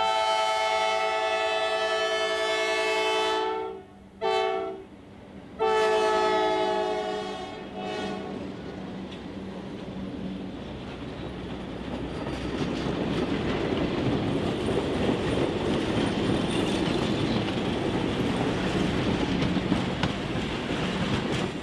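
Diesel locomotive air horn on a pair of Alco C420s blowing a long, a short and a long blast, the close of the grade-crossing signal. The train then rumbles past, louder after about 12 seconds, with wheels clicking over the rail joints.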